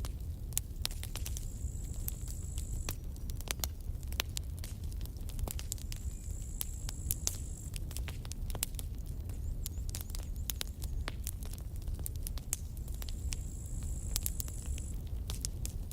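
Campfire crackling: wood burning with irregular sharp pops and snaps over a low steady rumble. A thin high-pitched tone comes and goes three times, each lasting a second or two.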